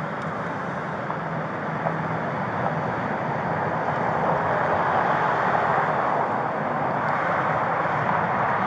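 Steady freeway vehicle noise, a continuous rush with a low engine hum beneath it, swelling slightly partway through.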